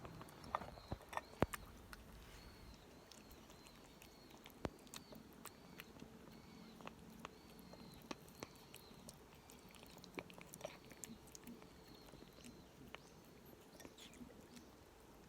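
Cat eating moistened wet food: small, irregular chewing and lapping clicks, the loudest ones in the first second and a half and sparser after.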